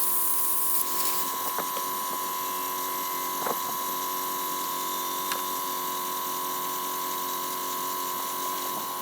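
Compressed air rushing through a pneumatic oil siphoning tool as it draws used engine oil out. The sound is a steady hiss with a high whistle, and it cuts off suddenly near the end when the air is shut off.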